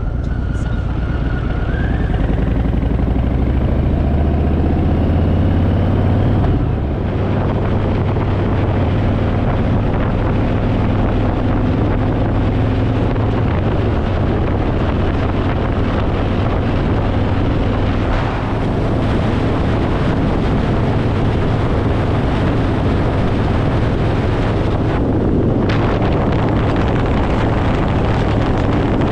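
Harley-Davidson Fat Boy's V-twin engine under way: it rises in pitch for about six seconds, changes gear, then holds a steady cruising note. Wind rushes over the microphone throughout.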